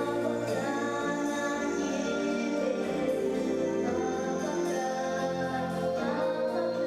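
Children's vocal group singing a song over instrumental backing.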